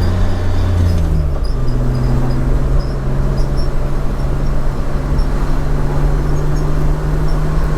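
BMW M50B25 2.5-litre straight-six running through Schmiedmann stainless headers and a 3-inch stainless exhaust with mid and rear silencers, on the move. The engine note drops in pitch a little over a second in, as on a gear change or lift-off, then settles into a steady drone that rises slowly.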